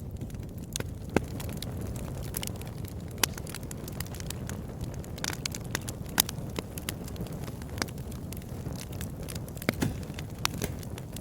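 Campfire burning: a steady low rumble of flames with irregular sharp crackles and pops from the burning wood, a few louder pops standing out.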